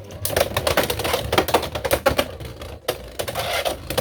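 Two Beyblade X spinning tops battling in a plastic stadium: a fast, continuous clatter of clicks and hits as they collide and scrape against each other and the stadium walls, with a brief lull near the three-second mark.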